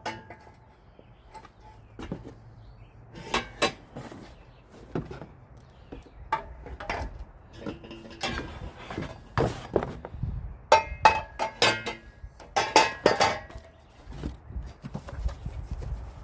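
Steel exhaust pipe sections clinking and knocking against each other as they are handled and lifted out of their shipping box: irregular metallic knocks, some with a brief ring, coming thickest about ten to thirteen seconds in.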